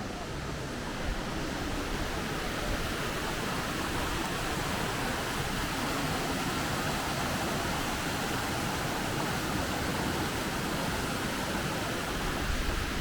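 The 33 m Minō waterfall falling into its pool, giving a steady, unbroken rush of water.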